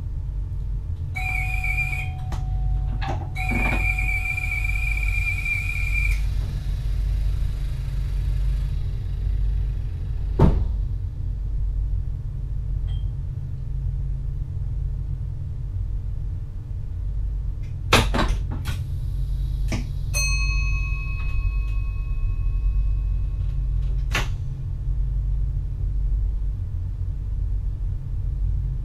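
NS VIRM double-deck electric train running, heard from inside the driver's cab as a steady low rumble. A high steady tone sounds twice near the start, briefly and then for nearly three seconds, and a few sharp clicks come later.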